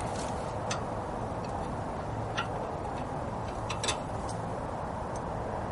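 A few scattered light metallic clicks of open-end wrenches being fitted onto a wheel hub mounting bolt and against each other, over steady background noise.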